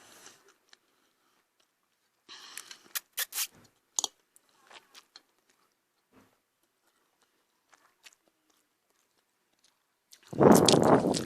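Close-up eating sounds: chewing with scattered mouth clicks and smacks between quiet gaps, then a loud, noisy burst lasting about a second near the end.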